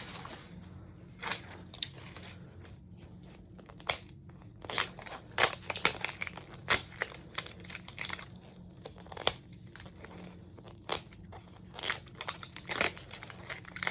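Plastic toy-capsule packaging being unwrapped by hand: irregular crinkling and tearing of thin plastic wrap, in clusters of sharp crackles that come thicker from about four seconds in.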